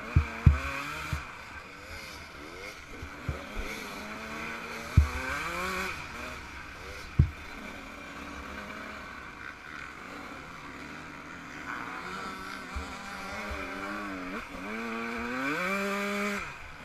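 Yamaha YZ125 125cc two-stroke single-cylinder engine revving hard and easing off again and again as the bike is ridden, with several sharp thumps in the first half and a steep climb in revs near the end.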